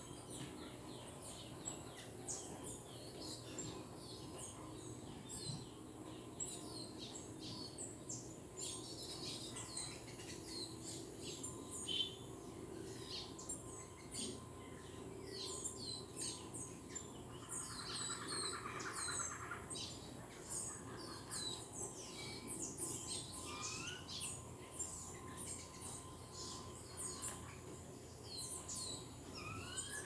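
Small tropical songbirds chirping and twittering: a dense run of short, high chips and trills that grows busier about a third of the way in. A buzzy trill lasts about two seconds just past the middle.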